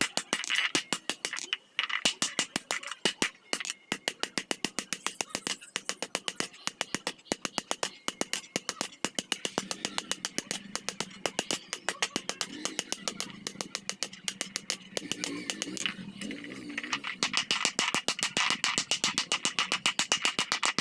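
Rapid hammer blows on iron, several strikes a second in a steady run, each with a bright metallic ring.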